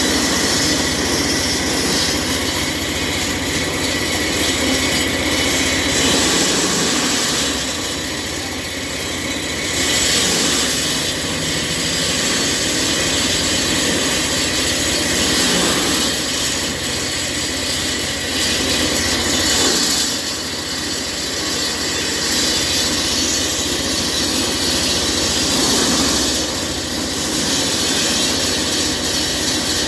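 Heavy-duty 24-inch walk-behind concrete saw with a 12 hp Honda petrol engine running, its blade whining in a loud, steady drone that swells and eases every few seconds.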